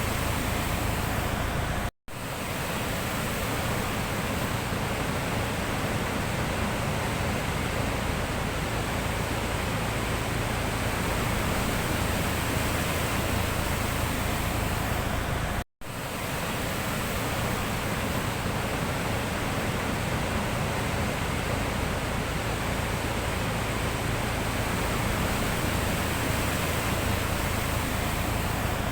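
Sea surf washing steadily as a continuous rushing noise. The sound cuts out abruptly for a moment twice, about two seconds in and again about halfway through.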